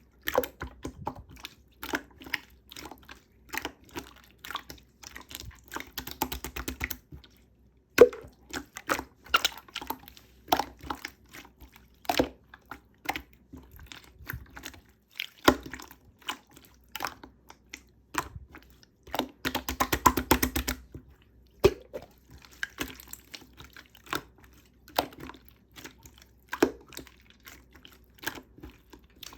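Clear slime being squished and poked by hand, making sticky clicks, small pops and wet crackles, with two runs of fast squishing, one about six seconds in and one about twenty seconds in.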